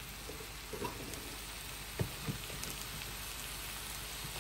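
Pasta and broccoli frying in a pan: a steady, even sizzle, with a couple of light knocks about two seconds in.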